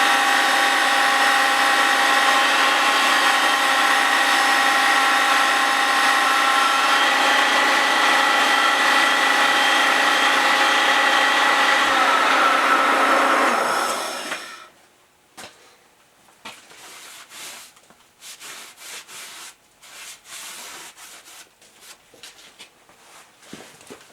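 Grinding wheel in a Cincinnati milling machine spindle grinding the face of a Willys Jeep flywheel: a loud, steady, gritty whine with several held tones. About twelve seconds in the whine drops in pitch and dies away as the wheel spins down, leaving a few light clicks and knocks.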